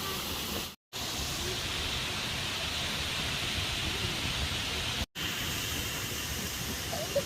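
Steady rush of a waterfall, an even hiss of falling water, broken twice by a brief silent gap.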